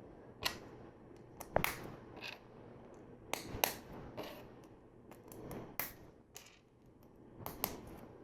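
LEGO plastic pieces being handled and snapped together: a string of sharp, irregular clicks, about eight, with light rustling of parts between them.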